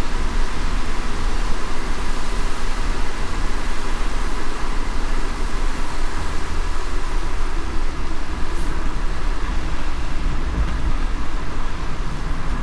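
Car driving in light rain: a steady low rumble of road and engine noise under an even hiss.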